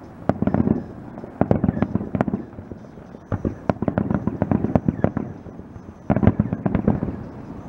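Aerial fireworks display: shells bursting in quick succession, sharp bangs and crackling coming in clusters, the loudest about six seconds in.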